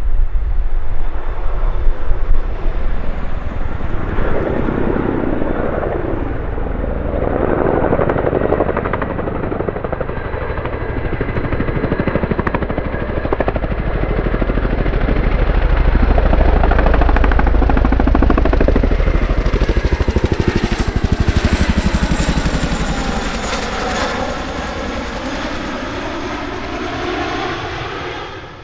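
Boeing CH-47F Chinook tandem-rotor helicopter running, its rotors making a rapid, continuous beat. It grows louder to a peak a little past the middle, then fades toward the end.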